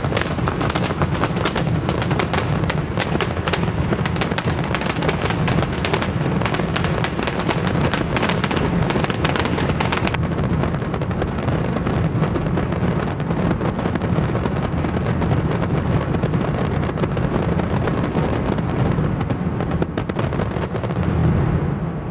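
Large fireworks display: a dense, continuous barrage of bangs and crackles, the bright high crackle easing about halfway through.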